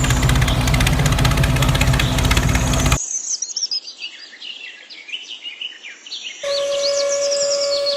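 A small engine runs loudly with a rapid, even pulse under birdsong, then cuts off abruptly about three seconds in, leaving birds chirping alone. About six and a half seconds in, a steady high hum starts under the chirps.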